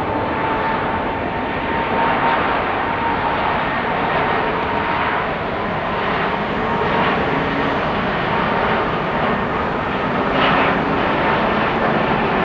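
Airbus A220-300 jet airliner departing, its Pratt & Whitney geared turbofans giving a loud, steady rushing roar with a steady whine running through it.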